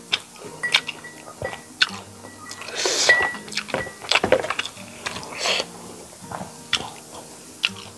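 Close-miked eating sounds: wet mouth clicks and chewing while rice and curry are eaten by hand, with two louder crunchy bursts, about three seconds in and again about five and a half seconds in, over soft background music.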